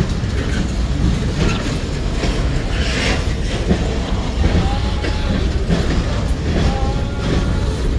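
Train cars rolling past at close range: a steady heavy rumble with repeated wheel clacks over the rail joints and a few brief, high wheel squeals.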